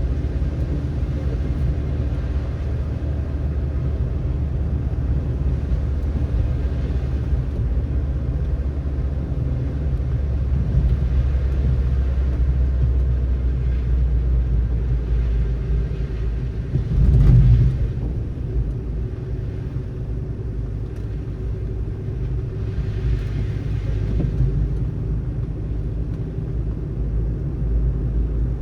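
Car driving on a snowy road: a steady low rumble of tyres and engine, with a brief louder thump a little past halfway.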